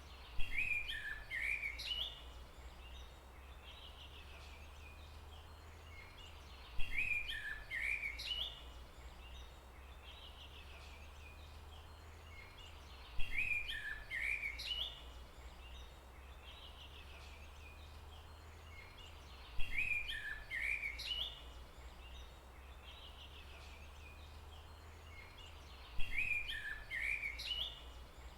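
A songbird sings the same short, chirping phrase five times, about every six and a half seconds, over a faint steady low hum of background noise.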